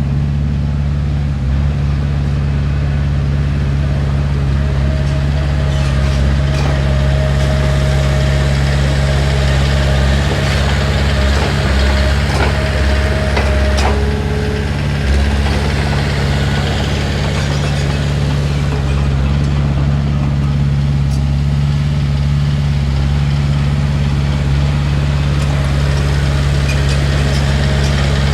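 Heavy diesel engine of earthmoving equipment running steadily, with a faint thin whine held from about five seconds in until about fourteen seconds in.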